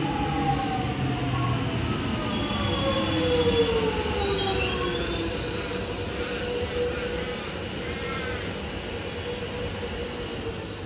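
Electric suburban train running on the rails, its motor whine falling in pitch over the first few seconds, with high-pitched wheel squeals around the middle.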